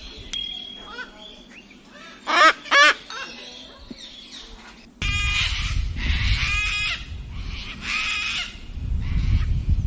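Cockatoo calling: two loud squawks about two and a half seconds in, then from about halfway a run of harsh, raspy calls over a low rumble.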